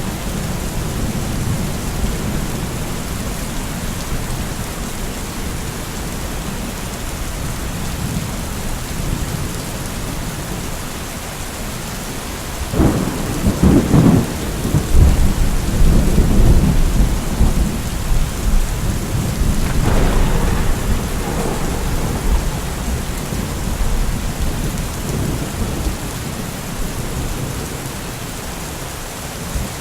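Steady rain falling through a thunderstorm, with a low rumble of thunder; about 13 seconds in a loud thunder clap rolls on for several seconds, and another roll of thunder breaks in around 20 seconds.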